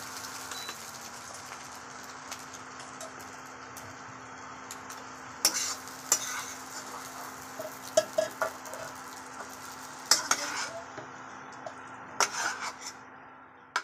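Potato filling sizzling in oil in a wok while a metal spatula stirs and scrapes it, with sharp scrapes and clinks of the spatula against the pan every couple of seconds. A steady low hum runs underneath.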